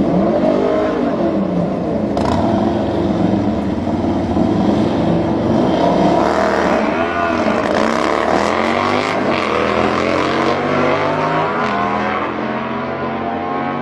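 Vehicle engine revved in repeated rising and falling blips over a steady idle, then climbing in pitch for several seconds near the end.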